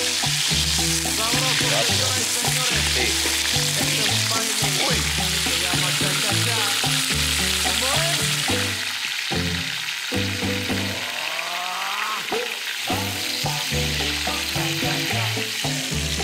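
Hot oil sizzling hard as freshwater prawns fry in a cast iron pot, stirred with a spatula; the sizzle eases about halfway through. Background music with a repeating bass line plays throughout.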